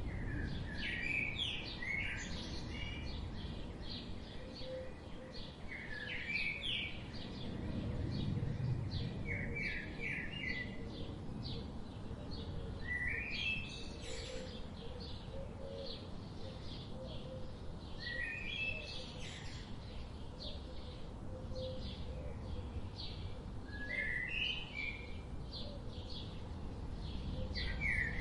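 Songbirds chirping: a chorus of quick high chirps, with one bird repeating a short stepped phrase every four or five seconds. Under them runs a steady low background rumble.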